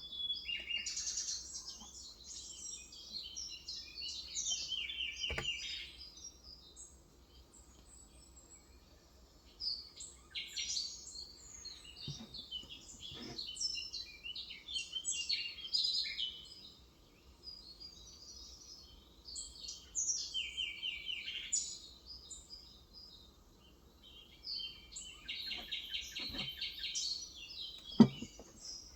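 Small birds chirping and twittering in busy runs of quick notes, with pauses between them. A few sharp single clicks sound among them, the loudest near the end.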